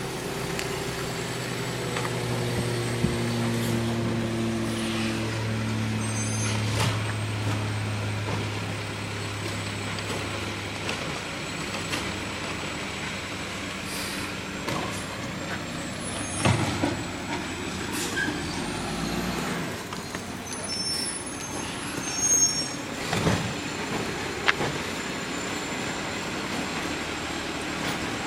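Garbage truck working its route: the engine runs with a steady hum that fades out about eleven seconds in. Several knocks and bangs follow in the second half.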